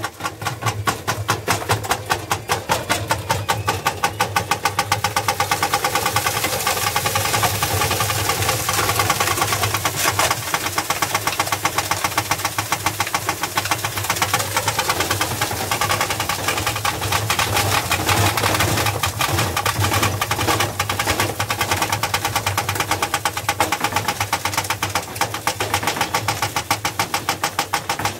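Washing machine running hard, its motor humming steadily under a fast, continuous rattling and knocking from the machine.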